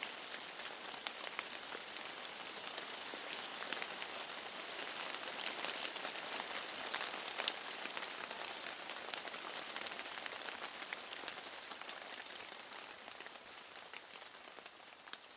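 Steady rain, with many separate drops ticking sharply through a continuous hiss. It eases off somewhat near the end.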